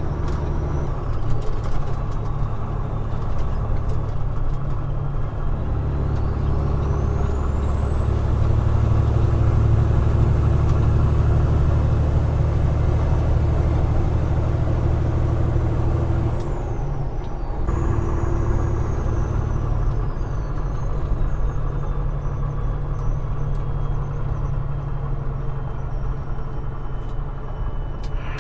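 Peterbilt 389 glider semi truck's diesel engine heard from inside the cab. From about six seconds in it builds to a heavier, louder drone with a high turbo whine rising over it, and holds for about ten seconds. It then falls away abruptly and settles back to a lighter, steady run.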